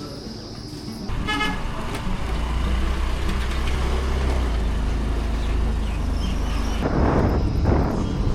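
A motor vehicle on the move, with a short horn toot about a second in, then a steady low rumble and two brief louder surges near the end.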